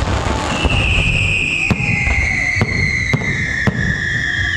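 Aerial fireworks bursting: sharp bangs about once a second over a dense low rumble. A high whistle sets in about half a second in and slowly falls in pitch.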